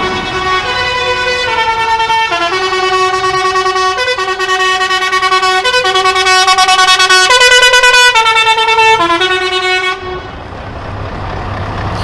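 A truck's musical multi-tone air horn playing a tune, note after note for about ten seconds, then cutting off suddenly, leaving the low rumble of truck engines.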